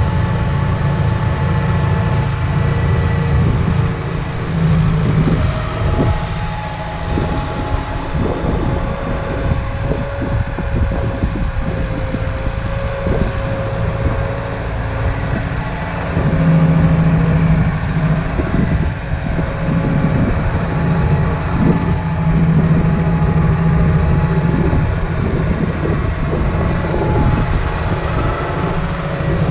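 Massey Ferguson 5455 tractor's diesel engine running steadily under load while pulling a six-row Mascar maize planter across the field. The drone grows a little louder about halfway through.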